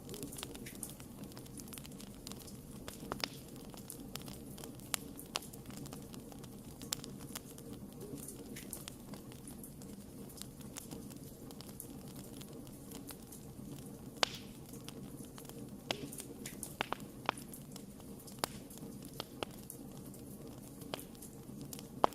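Wood campfire burning: a steady low rush of flame with irregular sharp crackles and pops of burning wood, a loud pop right near the end.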